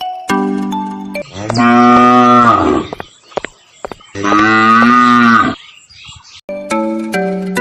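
A cow mooing twice, each moo about a second and a half long and dropping in pitch at the end. Light chiming music plays before and after the moos.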